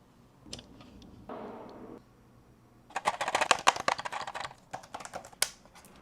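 Hands handling and opening plastic toy packaging. First come a few light clicks and a short rustle, then from about three seconds in a burst of rapid, crisp crinkling and crackling.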